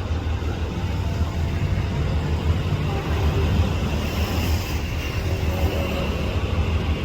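KiHa 183 diesel railcar running, a steady low rumble.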